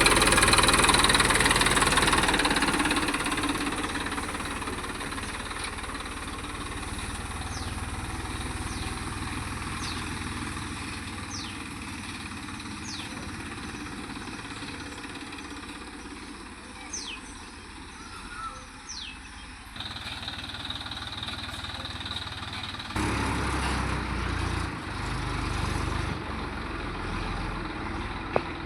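John Deere tractor engine running: loudest at the start and fading over the first several seconds, then steady, with the sound changing abruptly about twenty and again about twenty-three seconds in.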